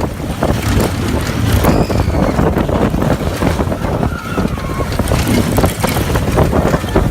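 Wind buffeting the microphone with the rumble and rattle of the Pony Express roller coaster in motion, loud and unbroken.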